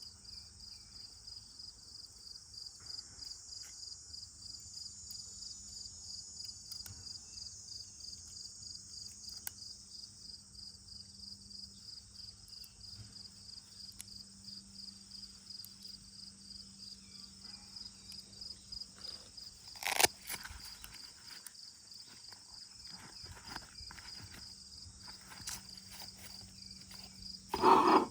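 Insects chirping steadily in a fast, even pulsing rhythm. A sharp knock sounds about two-thirds of the way in, and a louder clatter comes just before the end.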